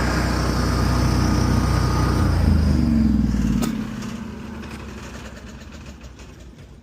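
An engine running steadily, then shut off about three and a half seconds in, its sound dying away.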